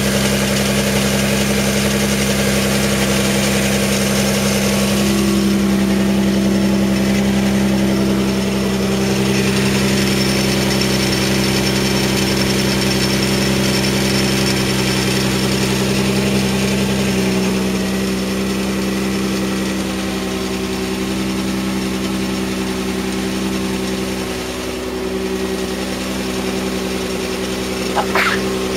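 1993 Mazda MX-3's 1.8-litre V6 idling steadily, carrying the clacking, rattling noise the owner is chasing. A newly replaced pulley has not cured it, so it is not that pulley's bearing. Two short sharp chirps come near the end.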